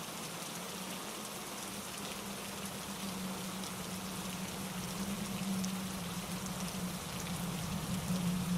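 Steady rain falling on leaves and rocks, a continuous hiss with scattered individual drop hits, over a low steady drone that swells and fades.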